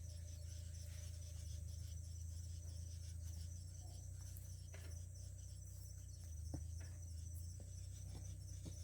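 Faint, steady high-pitched insect chirring, like crickets, over a low steady hum, with a few scattered soft clicks.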